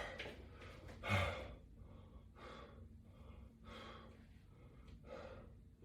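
A man breathing hard during exercise repetitions: four forceful breathy exhalations, about one every 1.3 seconds, the first the loudest.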